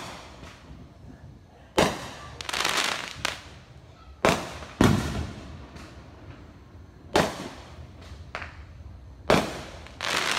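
Aerial fireworks going off: about five sharp bangs a couple of seconds apart, each fading away, with smaller pops between them and crackling stretches after the second bang and again near the end.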